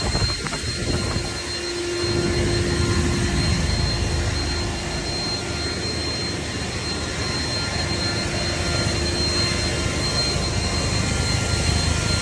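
Air blower running steadily, blowing dry a wet dog's coat, a steady rushing noise with a faint whine.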